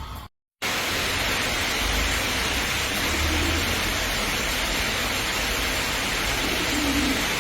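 Steady rushing hiss of falling water, like heavy rain, starting abruptly after a brief dropout. A dove coos faintly under it twice, once partway through and once near the end.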